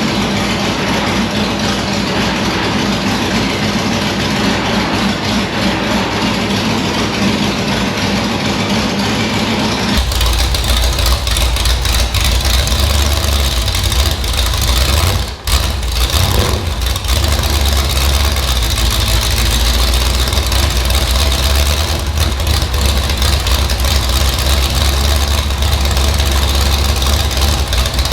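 Chevrolet small-block V8 of a vintage Lola T70 race car running steadily, mostly at idle, on a chassis dyno. About ten seconds in the sound abruptly becomes deeper and heavier, and near fifteen seconds it drops out for a moment.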